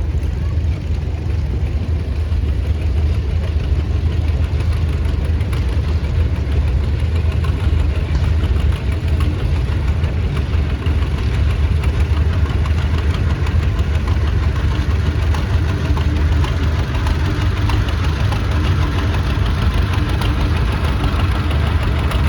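Vintage farm tractor engine running steadily at low speed, with a strong low rumble.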